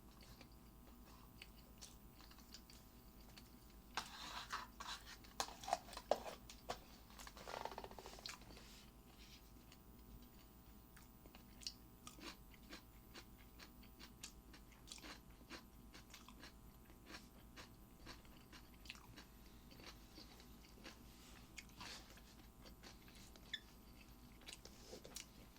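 A person chewing and eating close to the microphone, with soft wet mouth clicks. A louder bout of chewing comes about four to eight seconds in, then only faint scattered clicks.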